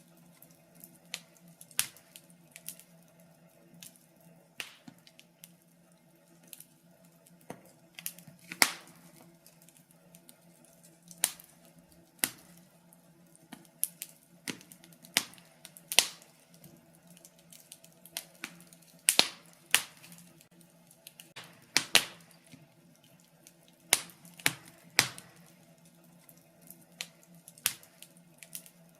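Wood fire in a fireplace crackling, with sharp pops at irregular intervals and a few louder snaps. A faint steady hum runs underneath.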